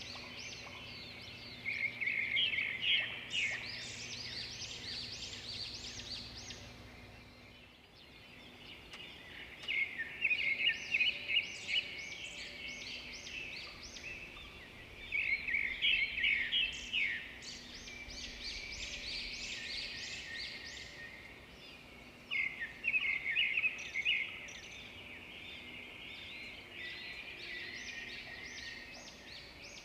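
Birds singing: loud bursts of rapid, high chirping song recur every six to seven seconds, with softer chirping in between.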